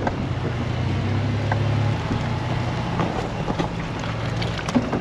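Truck engine running at low, steady revs while the vehicle crawls a rough off-road trail, heard from inside the cab, with scattered clicks and knocks in the second half.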